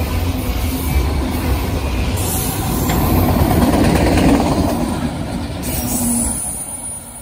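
Freight train of autorack cars rolling past, with a steady rumble of steel wheels on rail. It is loudest about four seconds in and drops away near the end.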